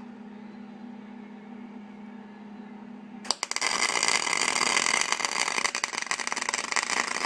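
Steady low hum, then about three seconds in a MIG welder's arc starts with a sharp crack and crackles loudly for about four seconds as a weld is laid on the sheet-metal patch, cutting off suddenly near the end.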